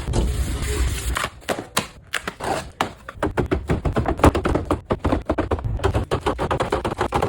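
Drink cans and bottles being handled and set down during a fridge restock: a fast, irregular string of knocks, clinks and clatters, with a rustling hiss in the first second or so.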